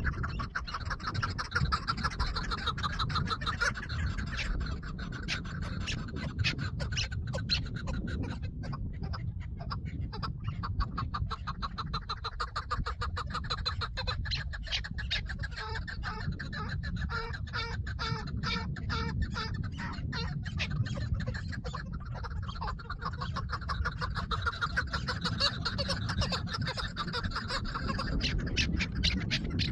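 Chukar partridges calling with rapid, repeated clucking notes, over a steady low rumble.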